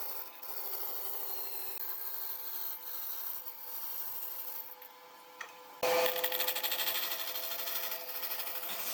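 A power tool working wood, giving a steady abrasive rubbing over a faint constant motor hum; about six seconds in a louder, rougher abrasive sound starts abruptly.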